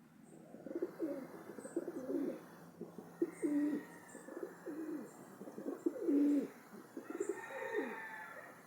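Several pigeons cooing over and over, their low calls overlapping, with a few faint, brief high chirps from small birds.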